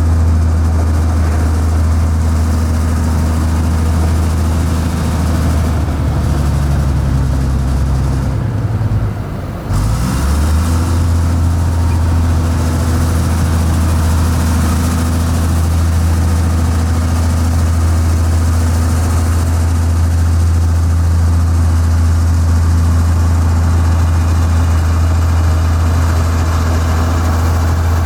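Heavy diesel engine of a construction machine running with a steady low drone; about eight seconds in its note falls and briefly dips, then picks back up and holds steady.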